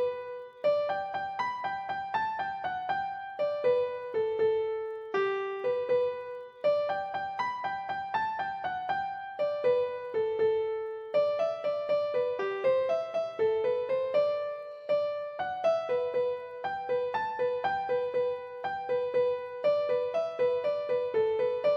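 Background piano music: a melody of quick single struck notes that fade as they ring.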